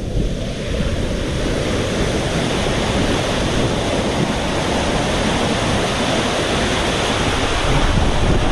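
Water rushing and splashing around a rider sliding down a waterslide, with wind buffeting the microphone. The noise is loud and steady, with no single impacts.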